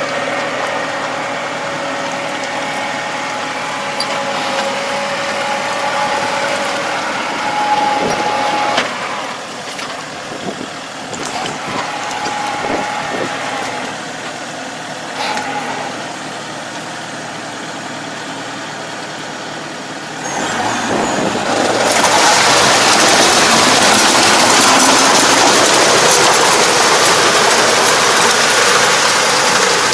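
Farm machinery engine running steadily with scattered clicks and knocks, then about two-thirds of the way in a loud, even rushing noise sets in abruptly and holds.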